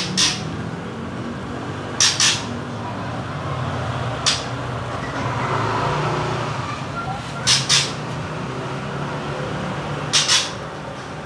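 A bird chirping in short, sharp pairs every two to three seconds over a steady background hum.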